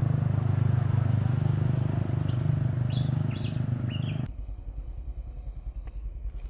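A small engine running steadily at an even pitch, cutting off abruptly about four seconds in and leaving a faint low rumble. A few short bird chirps sound over it in the second half.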